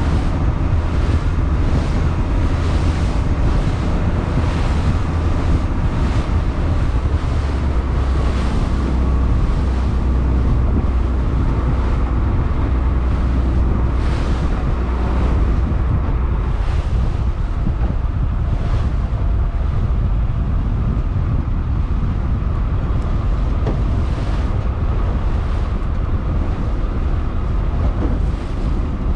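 Fishing boat's engine running steadily with a low rumble, under wind buffeting the microphone and water washing around the hull in repeated swells.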